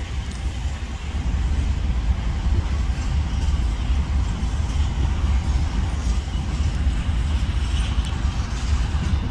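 Freight train's diesel locomotives passing, a steady low rumble with a constant wash of rolling noise.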